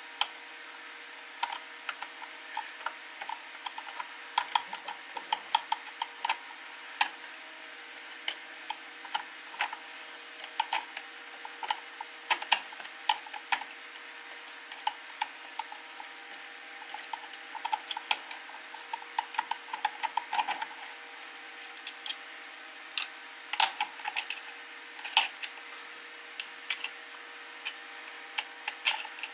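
Hand tools clicking and clinking against the metal parts of a Homelite chainsaw being taken apart, in irregular taps with quicker runs of clicks, as Loctited screws are worked loose. A faint steady hum runs underneath.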